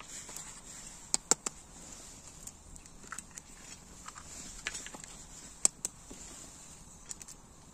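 Horse hooves knocking on stony ground, a few scattered sharp clicks with pauses between them, the loudest a quick pair about a second in and another single knock past the middle. A steady high hiss runs underneath.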